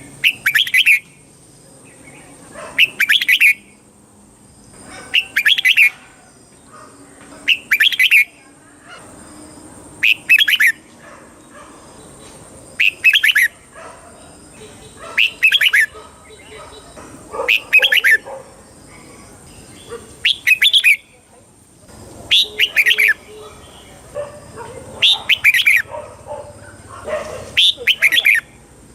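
Red-whiskered bulbul singing short, loud song phrases, one about every two and a half seconds, each lasting under a second.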